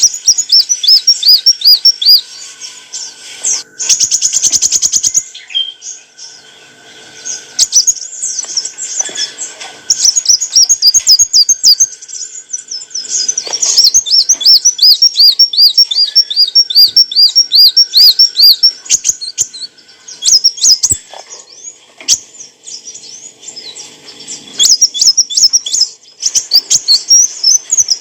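Kolibri wulung sunbird singing: long runs of quick, high-pitched, repeated chirping notes, several a second, broken by short pauses. About four seconds in there is a brief, very fast rattling trill.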